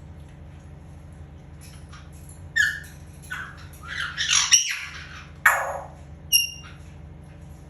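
African grey parrot squawking in a series of short, loud calls about halfway through, including a falling squawk and a brief whistle-like note near the end. A steady low hum sounds underneath.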